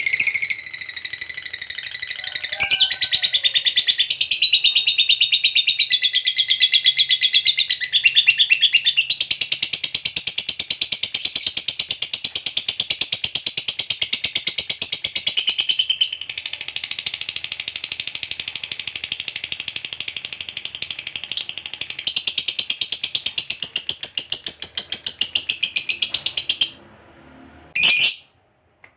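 Lovebird giving a long, unbroken 'ngekek' chatter: a rapid, high-pitched buzzing trill held for over twenty seconds and shifting in pitch a few times. It then breaks off, followed by a short call near the end.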